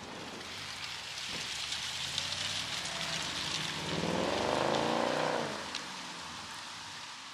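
A car accelerating past at close range: its engine note climbs in pitch and is loudest about five seconds in, then drops away as it pulls off.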